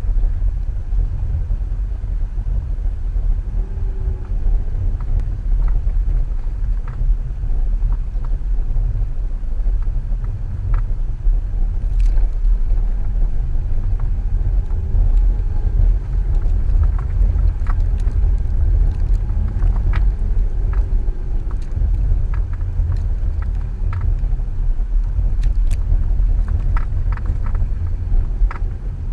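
A 2014 Subaru XV Crosstrek driving off-road through snow: a steady low rumble, with scattered knocks and clicks throughout.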